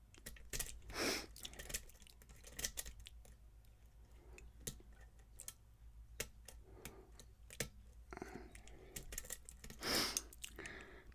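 A metal lock pick working the pins of a lock under tension: scattered faint clicks and scrapes, with two brief louder rushing sounds, about a second in and near the end.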